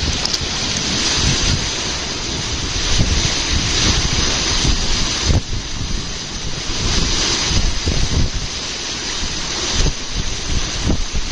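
Water of a large whirlpool rushing and churning as it is sucked down, a steady roaring hiss, with gusty wind buffeting the microphone.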